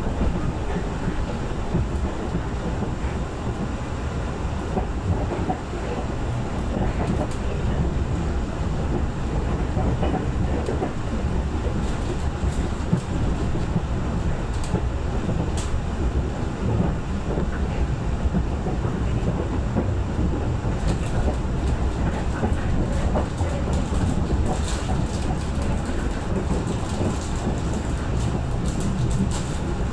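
KA Parahyangan passenger train rolling past at speed: a steady, loud rail rumble with the clatter of wheels over rail joints, the clatter growing busier in the second half.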